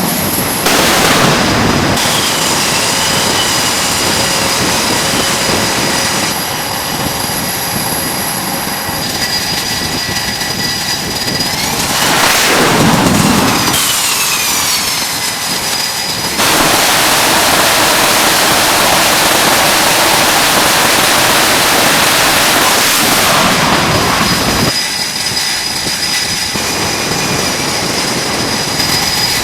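Loud jet aircraft engine noise, a steady rush with a high whine, in several stretches that change abruptly. About twelve seconds in, a jet passes by and its whine falls in pitch.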